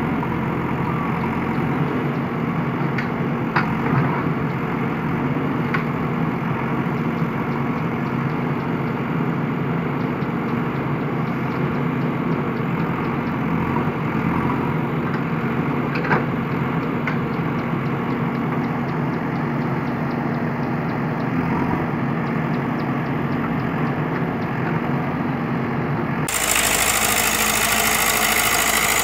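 JCB backhoe loader's diesel engine running steadily, with a few sharp clanks. About 26 seconds in, the sound changes abruptly to a louder, hissier engine noise.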